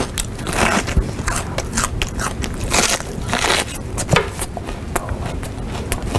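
A person chewing crunchy food loudly, with dense, irregular crunches and crackles throughout.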